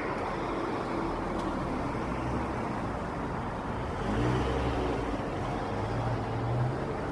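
City road traffic: a steady rush of passing cars, with a vehicle's engine hum coming up about four seconds in.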